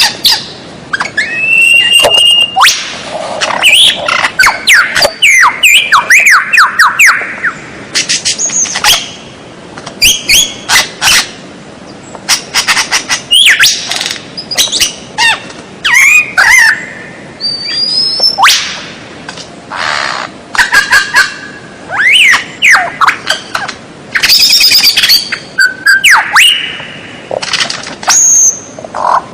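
White-rumped shama singing a varied song: phrases of gliding whistles, fast chattering trills and sharp clicks, each burst split by a short pause.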